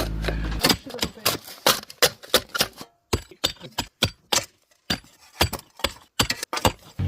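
An engine running steadily cuts off about half a second in, followed by a series of irregular sharp clicks and knocks, two to four a second, with short pauses between.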